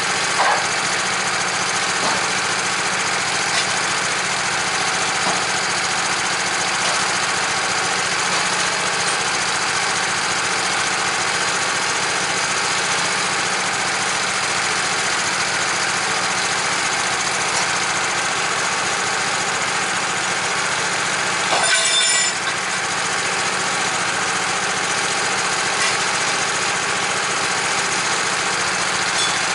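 Engine of a portable sawmill running steadily, with a short louder burst about 22 seconds in.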